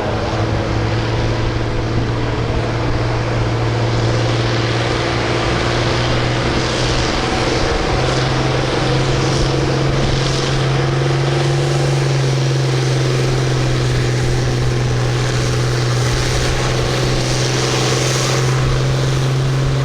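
Farm tractor engine running hard at steady high revs while pulling a weight-transfer sled. Its pitch steps up about eight seconds in and then holds.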